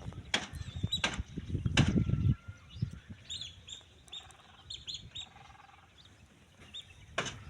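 Birds calling in short high chirps, clustered around the middle, over low rumbling with a few sharp knocks in the first couple of seconds and again near the end.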